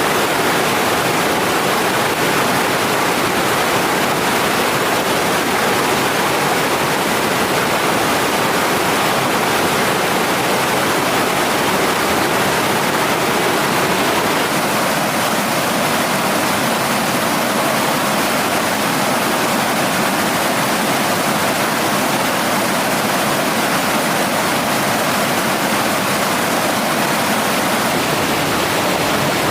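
Mountain stream water rushing over rocks: a loud, steady roar with no breaks.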